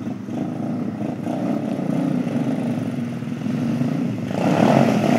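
Pit bike engine running, then revving up louder about four seconds in.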